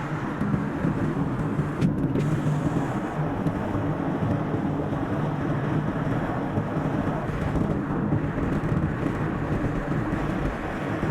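Car driving along a road: steady engine and tyre noise, played back at double speed. The high end briefly drops out about two seconds in.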